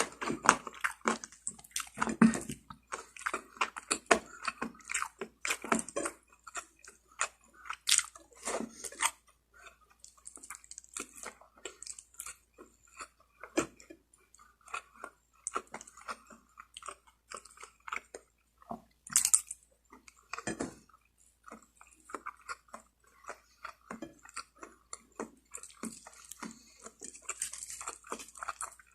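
A person chewing and biting rotisserie chicken close to the microphone: a steady run of irregular mouth clicks and smacks, with one louder, sharper sound about two-thirds of the way through.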